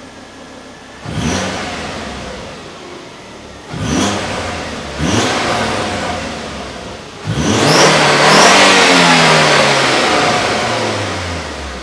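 Volvo C30 engine through its completely stock exhaust, idling and then revved: three quick blips at about one, four and five seconds, then a longer, louder rev from about seven seconds in that falls slowly back toward idle near the end.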